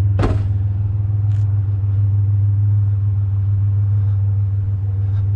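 Pickup truck engine running with a steady low hum, and a single sharp knock about a quarter of a second in.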